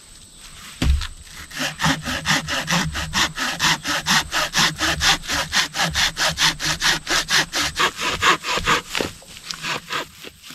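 Hand saw cutting through wood with quick, even back-and-forth strokes, about five a second. It starts about a second in and stops near the end.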